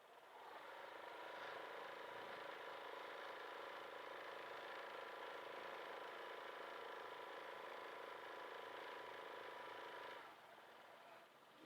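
Benelli Zafferano 250 maxiscooter running in traffic: a faint, steady engine hum over road noise, dropping away about ten seconds in.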